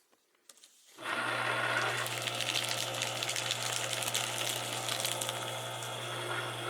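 Paper shredder's motor and cutters start about a second in and run steadily with a low hum, after a few small clicks.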